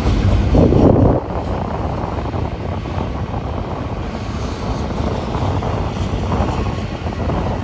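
A BNSF double-stack container train rumbling past; the heavy rumble stops suddenly about a second in. A steady rushing noise follows, from strong wind blowing across the microphone.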